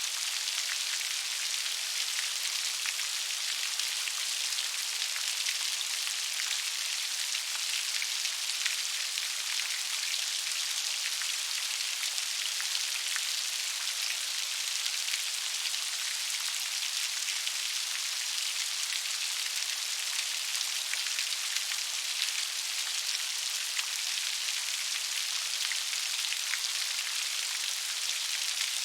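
Steady gentle rain falling: an even high hiss with many fine drop ticks and almost no low rumble.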